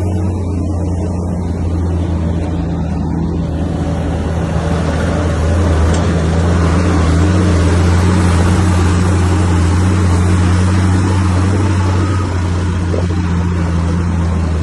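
Bulldozer's diesel engine running steadily with a deep hum, growing louder and noisier about five seconds in as it works harder.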